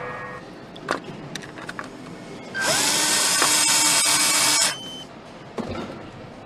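A power tool runs for about two seconds. Its whine rises as it spins up over a loud hiss, then it cuts off. Single sharp knocks come before and after it.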